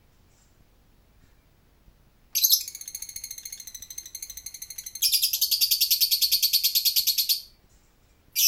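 Lovebird giving its long ngekek call: a rapid, high-pitched chattering trill that starts about two seconds in, grows louder midway and runs for about five seconds, followed near the end by a single short chirp.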